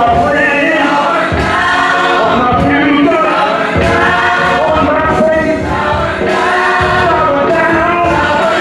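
Gospel choir and congregation singing a worship song with full band accompaniment, voices in harmony over a steady beat.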